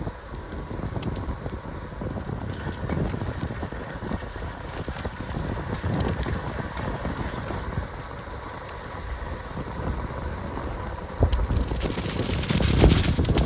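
Wind buffeting the microphone and rattling rumble from a bicycle riding along a paved trail, louder for the last couple of seconds.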